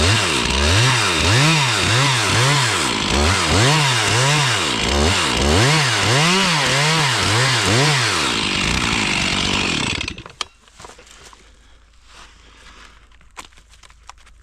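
Stihl chainsaw revving up and down about once a second, then holding steady and stopping about ten seconds in. After it stops, light snapping and rustling, like brush underfoot.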